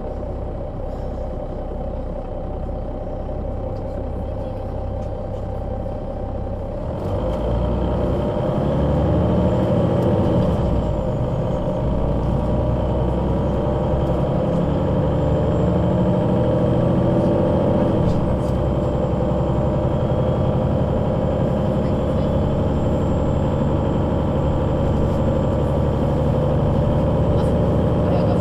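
Solaris Urbino 12 III city bus with a Voith automatic gearbox: the diesel engine idles with a low, even pulsing, then about seven seconds in it pulls away louder. The engine note rises, drops back at gear changes around eleven and eighteen seconds in, and runs on with a faint high whine.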